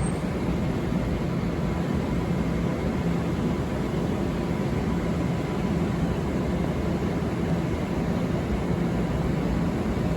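Long Island Rail Road train running past, a steady rumble with a steady low hum.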